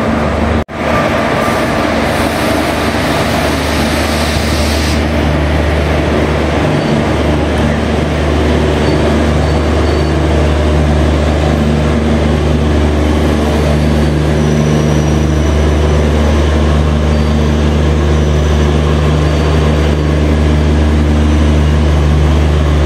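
Steady low machinery hum of a standing train, loud and unbroken apart from a brief dropout under a second in.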